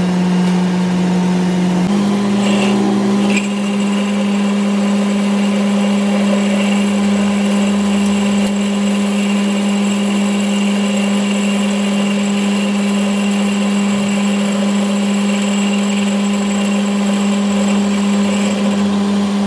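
A power tool or shop machine motor running steadily at constant speed, giving a steady tone that steps up slightly in pitch about two seconds in.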